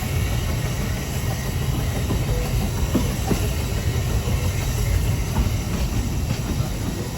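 Narrow-gauge railway train running: a steady rumble from the wheels and carriages, with a few faint clicks about three seconds in.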